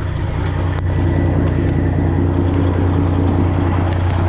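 Detroit Diesel 12.7-litre diesel engine of a Freightliner Classic XL semi truck idling steadily.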